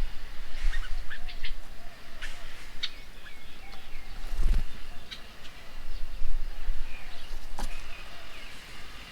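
Wild birds chirping and calling in short, scattered notes, several at once, with a low rumble coming and going, loudest about four and a half seconds in.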